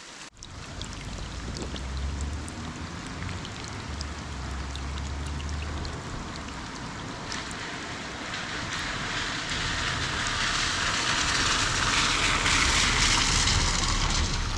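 Rain falling on the leaves of a horse chestnut tree overhead: a steady hiss with individual drops ticking, growing louder in the second half. A low rumble runs underneath.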